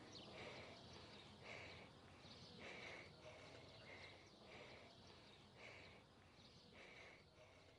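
Near silence: faint outdoor background with birds chirping, one soft call repeating a little under twice a second.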